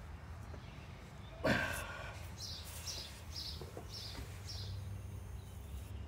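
A small bird chirping, a run of about six short high chirps roughly three a second, over a low steady background hum. A single louder, short sound comes about a second and a half in.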